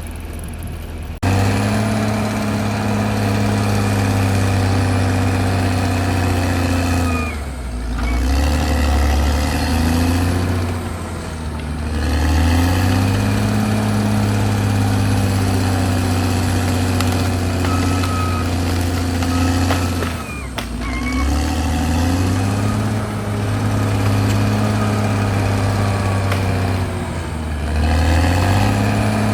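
Caterpillar D6R crawler bulldozer's diesel engine running steadily at high revs. Its pitch sags and recovers four times as the engine is loaded or throttled back and picks up again.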